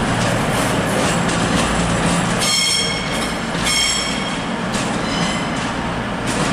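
Train moving through the station with a steady rumble of wheels on rail and faint clicks. Two short spells of high-pitched metallic squeal come about two and a half and about three and a half seconds in.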